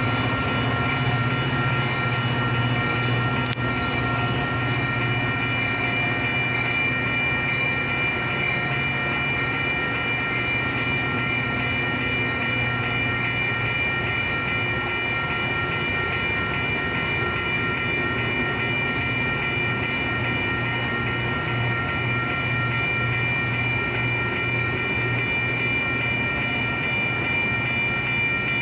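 Metra bilevel commuter coaches rolling past at a grade crossing: a steady rumble of wheels on rail with a regular low pulsing beat. Several steady high-pitched tones ring over it.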